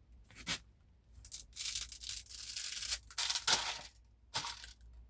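A bundle of dry whole wheat pasta being snapped in half: the strands crackle and rustle, with a few sharp cracks, and the sound is densest from about one and a half to four seconds in.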